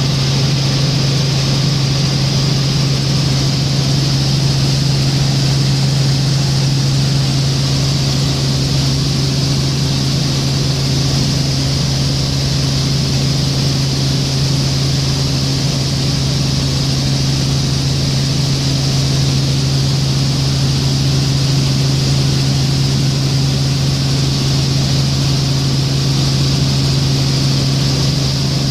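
Helicopter in flight heard from inside the cabin: a loud, steady engine and rotor drone with a strong low hum and a hiss above it, unchanging throughout.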